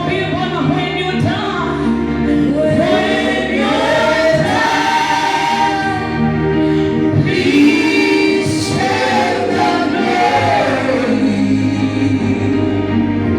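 Gospel choir singing a worship song with musical accompaniment.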